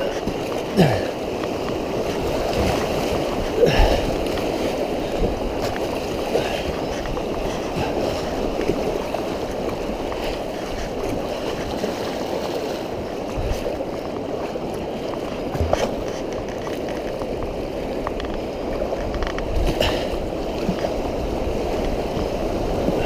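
Fast-running floodwater rushing and gurgling steadily around a kayak in rapids, with a few sharper splashes or knocks, the loudest about four seconds in.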